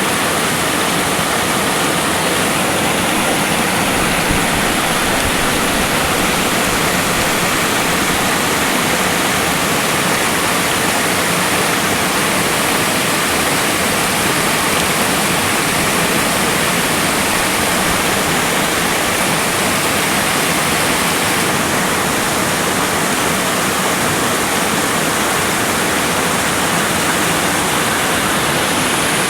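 Water pouring down a waterfall, a loud, steady rush.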